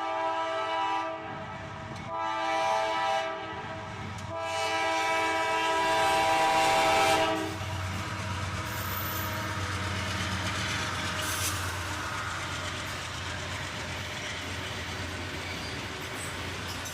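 Diesel freight locomotive's multi-chime air horn sounding three blasts, the last the longest, as the train approaches. After the horn stops, about halfway through, the steady low rumble of the locomotives and freight cars passing.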